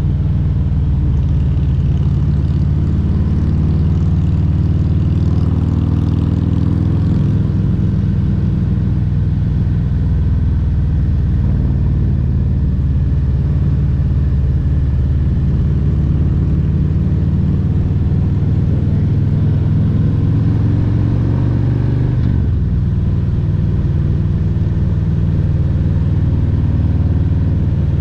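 Harley-Davidson Road Glide Special's Milwaukee-Eight 114 V-twin engine running under way, its note shifting with the throttle about a quarter of the way in and dipping again near three quarters of the way through.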